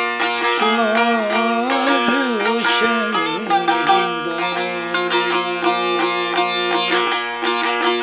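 Turkish folk music on a plucked long-necked lute of the bağlama (saz) type: a tune over steady ringing drone notes, the melody sliding and wavering in the first half, then settling on held notes.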